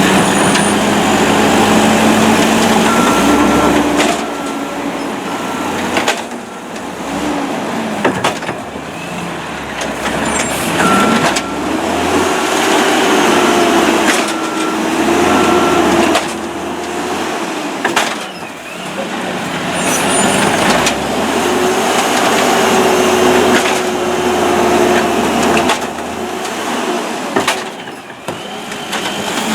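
Peterbilt garbage truck's engine revved up and down by hand, over and over, to drive the hydraulics of its Amrep Octo automated side-loader arm. Its pitch rises and falls with each cycle, over occasional knocks and two runs of short beeps.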